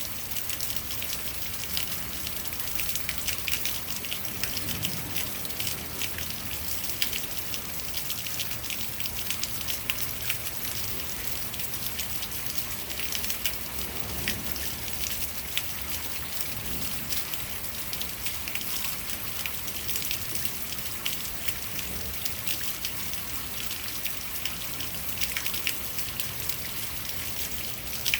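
Rainwater running down a rain chain: a steady, irregular patter of drips and splashes over a continuous trickling rush of water.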